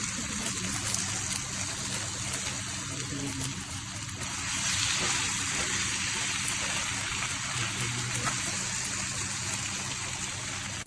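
Water running steadily from a tap, growing a little louder about four seconds in and cutting off suddenly at the end.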